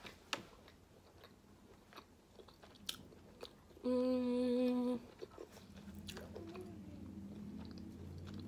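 A person chewing gyoza up close, with scattered wet mouth clicks and smacks. About four seconds in comes a steady hummed "mmm" lasting about a second, the loudest sound. Faint voices murmur in the background near the end.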